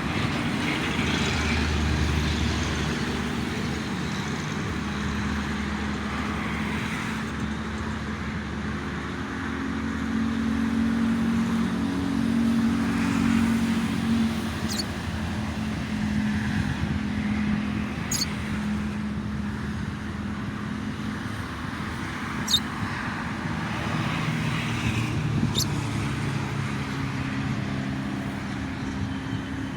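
Steady road traffic on a toll road, engine hum and tyre noise swelling and fading as vehicles pass. About five short, sharp, high chirps cut through it in the second half, the brightest about two-thirds of the way in.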